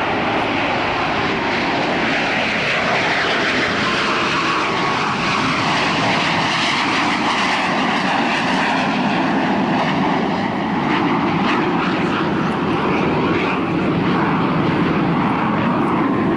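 Jet noise from CT-114 Tutor trainers, each powered by a single J85 turbojet, running loudly and steadily, with faint tones that drift slowly up and down in pitch as the aircraft move.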